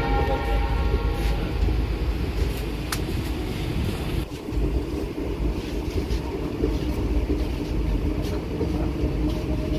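Locomotive horn sounding and fading out in the first second or so, then the steady rumble of a passenger train running, with scattered wheel clicks over the rail joints.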